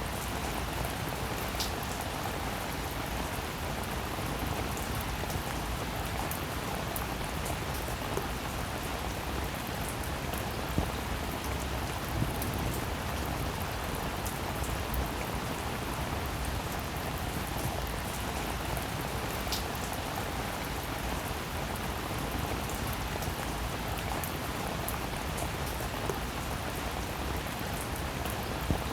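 Steady rain falling, with a few louder single drops ticking through it now and then.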